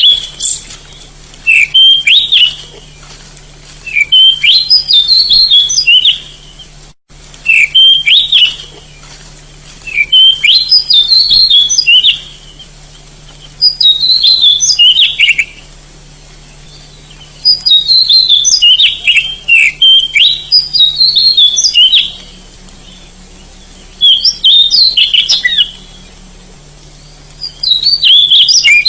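Oriental magpie-robin (kacer) singing vigorously in loud phrases of rapid, varied whistled notes. Each phrase lasts about two seconds, and a new one starts roughly every four seconds.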